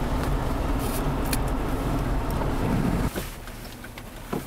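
Steady rumble of a vehicle's engine and road noise, heard from inside the car, that drops away abruptly about three seconds in, leaving a quieter background with a couple of faint clicks.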